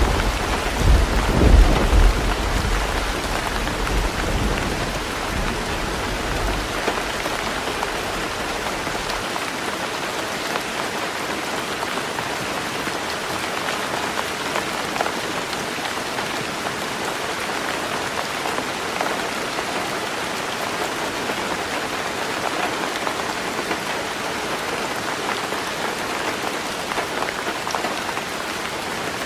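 Heavy rain drumming steadily on a roof, with a deep rumble of thunder in the first few seconds that dies away, leaving only the even hiss of the rain.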